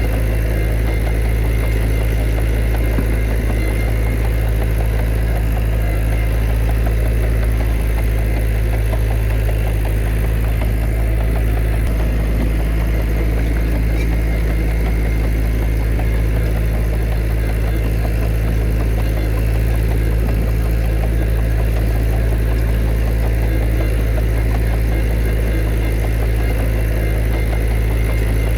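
Heavy diesel engine of earthmoving machinery running steadily, a deep constant drone with no revving or pauses.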